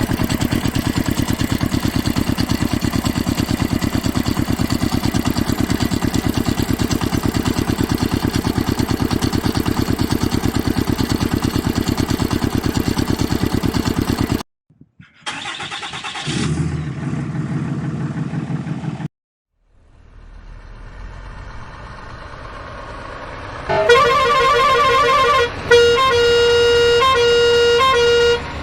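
A small engine running with a fast, even pulse. It cuts off suddenly about halfway through. After a few short fragments and gaps, loud horn tones sound in a repeating pattern near the end.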